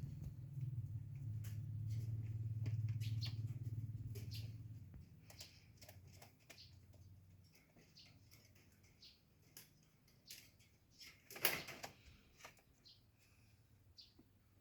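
Domestic pigeons moving about in their loft: scattered light clicks and scuffs, with one loud wing flap about three-quarters of the way in. A low hum fades out during the first third.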